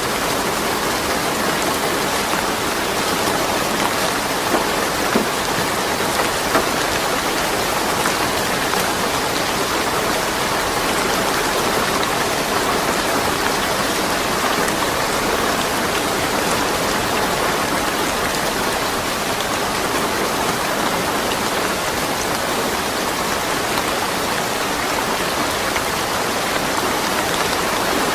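Steady rain falling, an even hiss of drops with no thunder, and a few sharper drop taps about five seconds in.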